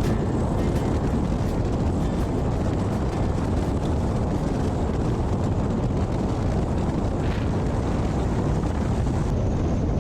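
Steady low rumble of wind buffeting the microphone over a Yamaha NMAX motor scooter running along the road.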